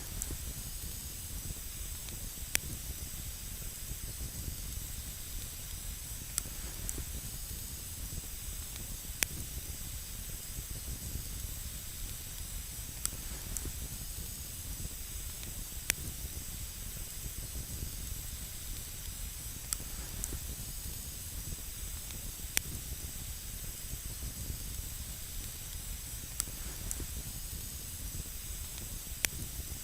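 Campfire burning on snow with a steady hiss and sharp, single crackling pops every few seconds.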